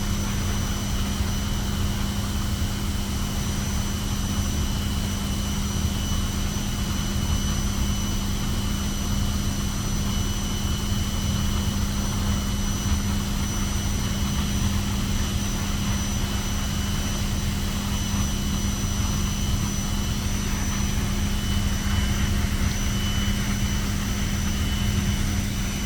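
A steady machine hum, like a fan or blower running: a low drone with a faint high whine and an even hiss, unchanging throughout.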